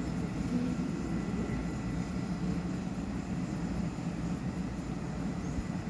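Train running with a steady low rumble and drone, without sharp knocks or squeals.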